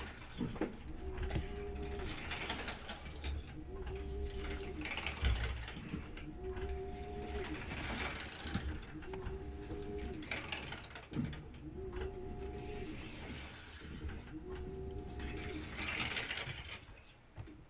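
Washing machine mid-wash: every two seconds or so the motor gives a short humming tone as it swings the drum or agitator one way, and water swishes in between, over a steady low rumble.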